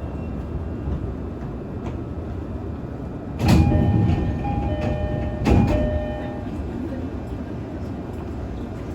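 On-board running noise of an E531 series electric train: a steady low rumble, broken by two loud sudden jolts about two seconds apart, each followed by a brief ringing of several tones.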